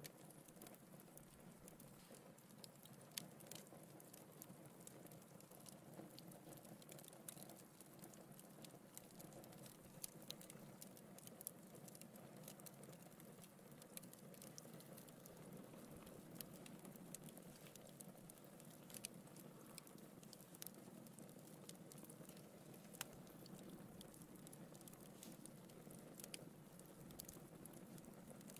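Wood fire crackling in a fireplace, faint: a soft steady rush of burning with frequent irregular snaps and pops, a few of them sharper and louder.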